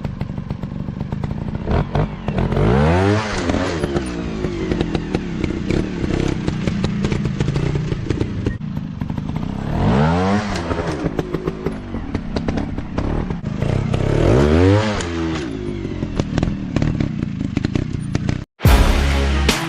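Dirt bike engines running off-road, revving up and dropping back three times, with rattling and knocking from the bikes over rough ground. Music cuts in near the end.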